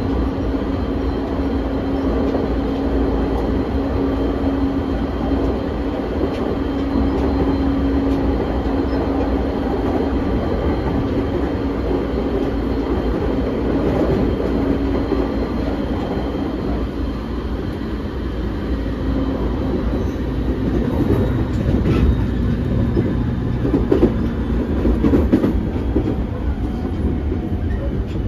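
JR 209 series 500 electric commuter train heard from inside a car running at speed: steady motor hum over wheel and track rumble. The hum fades about two-thirds of the way through, and a few rail-joint clicks and knocks follow.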